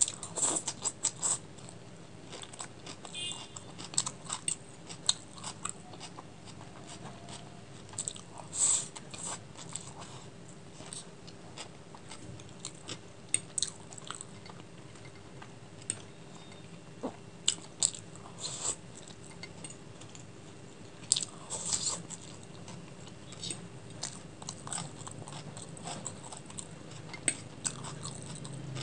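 Close-miked chewing and wet mouth sounds of a person eating chicken chow mein noodles, with sharp smacks and clicks at irregular moments over a faint steady hum.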